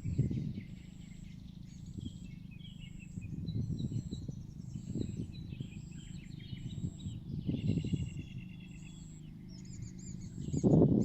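Outdoor ambience of small birds chirping and trilling, over a faint high pulsing about twice a second. Low gusty rumbles of wind on the microphone come and go, the strongest near the end.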